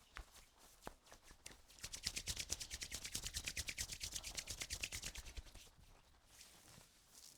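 Hands working over skin during a massage: soft scattered touches, then about two seconds in a fast, even run of light strokes at about ten a second for nearly four seconds, which then eases off.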